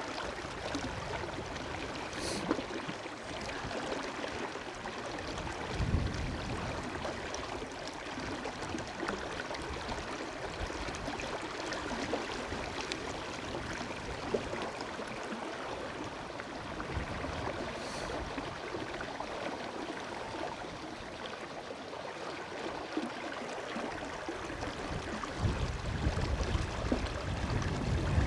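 River water flowing, a steady rushing hiss. Gusts of wind rumble on the microphone about six seconds in and again near the end.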